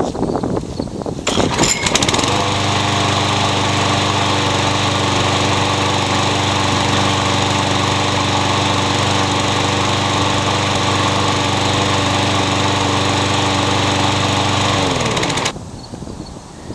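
Yard Machines walk-behind lawn mower engine pull-started, catching after a second or so and running steadily, then winding down to a stop near the end. This is the test start after fitting a new bail cable.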